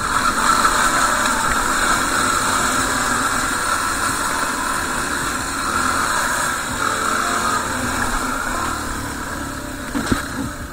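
Dual-sport motorcycle engine running steadily with a rush of road and wind noise, and a brief knock about ten seconds in.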